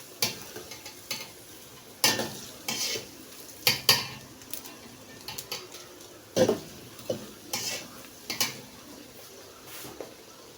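Metal spoon stirring fried rice in a pot, with irregular clinks and scrapes against the pot over a faint sizzle.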